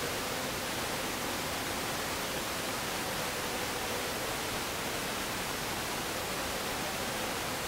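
Steady, even hiss of static-like noise that does not change.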